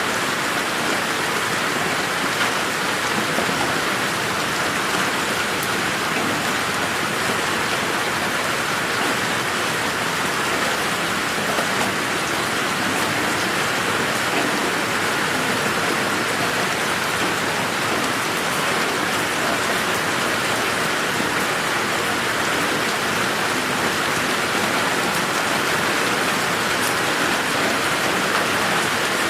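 Steady rain falling in a garden, an even hiss of rain with scattered drops pattering on surfaces.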